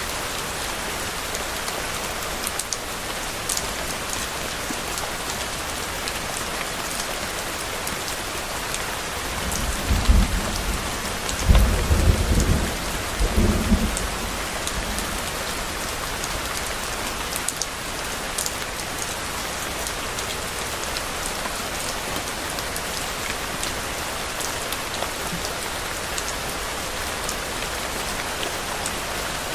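Steady rain falling on a surface, with a low rumble of thunder swelling in a few waves from about ten to fourteen seconds in.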